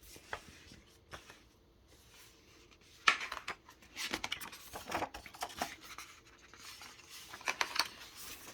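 Paper pages of a picture book being handled and turned: scattered rustles and scrapes, faint at first, with a sharp rustle about three seconds in and more handling after it.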